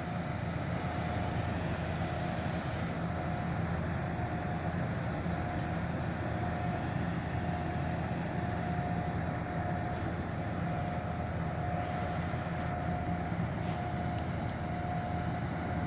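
Diesel locomotives of a freight train, an Illinois Central SD70 and an ex-Grand Trunk Western SD40-2, running as the train approaches. The engines make a steady drone with a constant whine above it.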